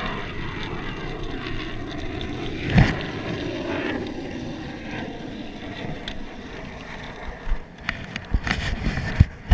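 Distant jet aircraft doing aerobatics, a steady engine rumble mixed with wind on the microphone. A single sharp knock comes about three seconds in, and a few clicks near the end.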